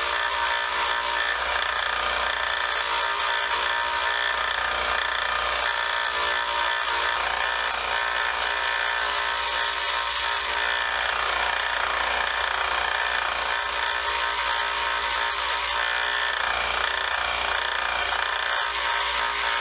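A 1x30 belt sander running steadily with its motor whine while its belt sands a wooden screwdriver handle.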